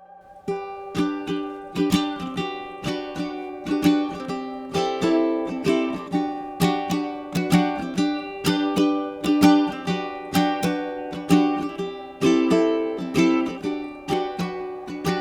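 Instrumental music intro: a plucked ukulele or acoustic guitar picking a gentle, rhythmic pattern, leading into a song.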